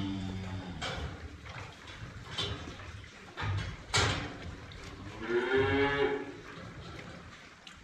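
Cattle mooing: a low moo fading out in the first second, then a louder, higher moo that rises and falls from about five to six seconds in. A few sharp knocks come between them, the loudest about four seconds in.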